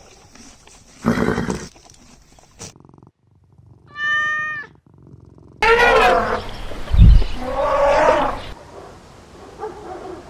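Animal calls in several short edited clips: a brief noisy burst, one clear pitched call, then a run of calls that rise and fall in pitch, with a low thump among them.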